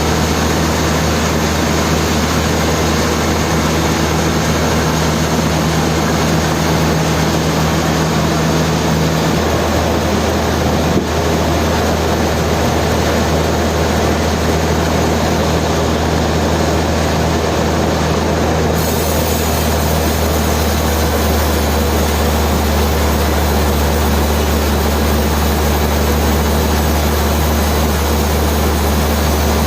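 Sawmill machinery running steadily: a constant, dense mechanical noise over a low hum.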